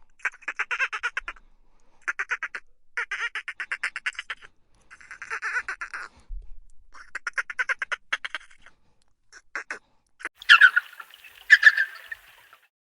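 Duck quacking in quick runs of rapid calls, repeated several times, then two louder, harsher squawks near the end.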